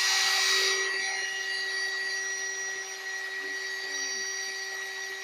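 Black and Decker cordless drill with an empty chuck, cranked up to full speed and running steadily with a constant high whine.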